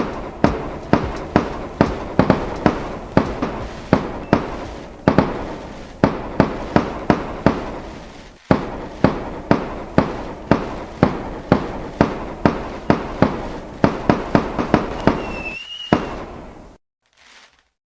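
Fireworks going off in a rapid volley, about two to three sharp bangs a second, each with a short echoing tail, with a brief high whistle near the end. The volley stops suddenly a second before the end.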